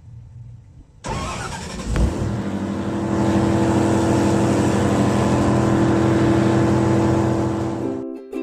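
Engine starting about a second in, catching with a thump, then running loud and steady. It cuts off abruptly near the end.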